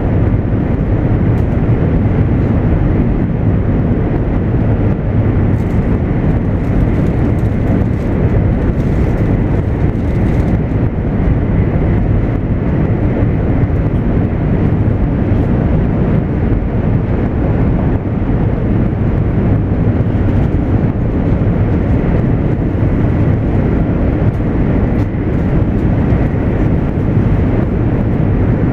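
JR East 200 series Shinkansen running at speed, heard from inside the passenger car: a deep, steady rumble of the train in motion.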